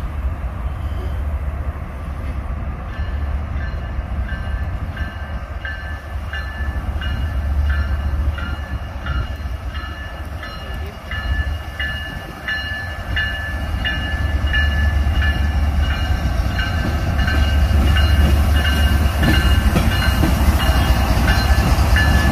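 A train running past with a heavy low rumble that grows louder toward the end. From about three seconds in, a railroad bell rings steadily about twice a second.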